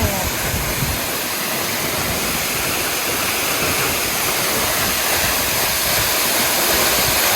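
Waterfall pouring into its pool: a steady, dense rush of falling water with no breaks.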